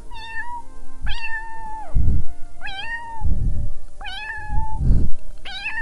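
A cat meowing over and over, about five meows each rising and then held, one roughly every second and a half, with short low rumbling sounds between them.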